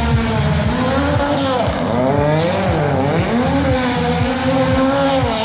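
Racing motorcycle engine at high revs, its pitch rising and falling with throttle and gear changes. The pitch dips about halfway through, then climbs again.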